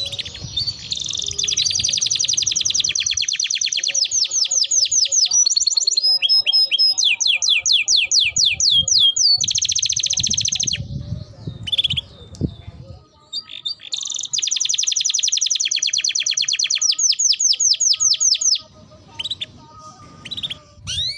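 A songbird singing long, fast trills of rapidly repeated high notes, some sweeping downward, with a brief break about halfway through and weaker calls near the end.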